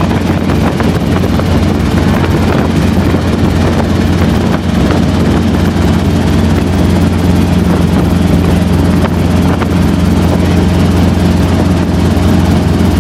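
Helicopter rotor and engine running steadily in flight, a loud, even drone.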